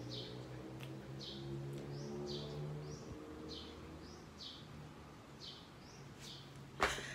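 A small bird repeating a short chirp at an even pace, over a low steady hum. A sharp knock near the end is the loudest sound.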